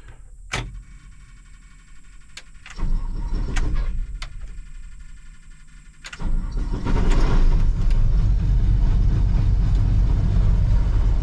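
International Harvester 1440 combine's diesel engine being cranked and starting: a few sharp clicks and a short burst, then about six seconds in the engine catches and settles into steady running for the warm-up.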